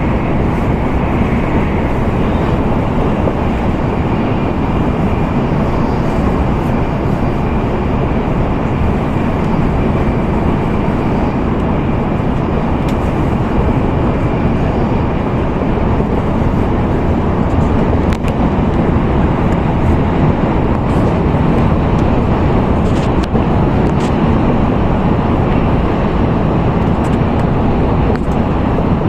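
Steady running noise inside the cabin of an N700A Tokaido Shinkansen at speed: an even, loud rumble of wheels, track and air, with a few faint ticks in the second half.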